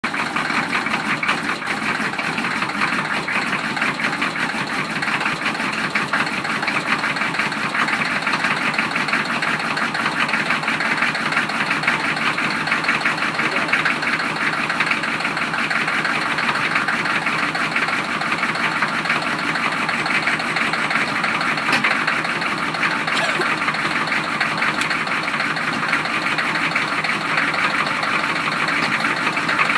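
1993 Chevrolet engine idling steadily with a rapid knock from the bottom end: rod knock, the sign of a worn connecting-rod bearing.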